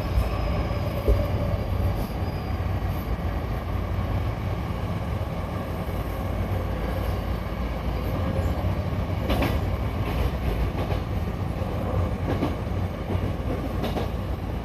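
Hankyu local electric train running between stations, heard from inside the car: a steady low rumble of wheels on rail, with a few sharp clacks over rail joints in the second half.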